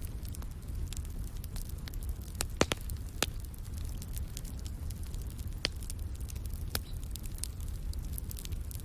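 Wood fire crackling in a fireplace: irregular sharp pops and snaps over a steady low rumble, with a few louder pops about two and a half to three seconds in.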